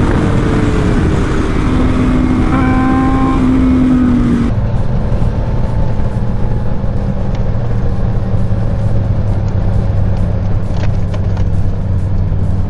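Motor vehicle engine running steadily under a rushing noise. About four and a half seconds in, the sound switches abruptly to a duller recording with a steady low engine hum.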